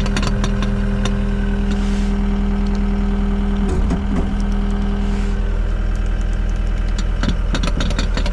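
John Deere 323D track skid steer's diesel engine idling steadily without revving up, while small clicks and knocks sound over it. The engine is warm but will not rev with the foot pedal or hand throttle: an acceleration fault.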